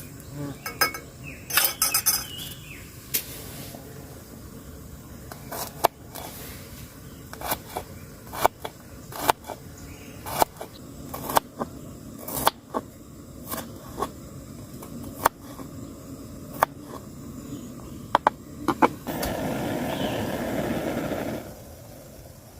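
Camp cookware and utensils being handled, with a string of sharp clinks and knocks at irregular intervals. Near the end comes about two seconds of steady rushing noise.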